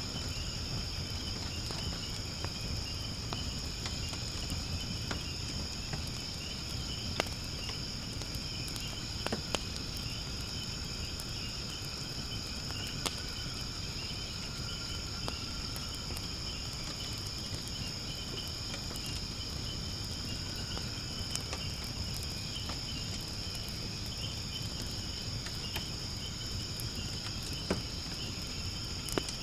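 Wood fire burning in a fire pit, giving a low rumble and an occasional sharp pop or crackle, a few times in all. Over it, insects chirp in a steady, high, unbroken chorus.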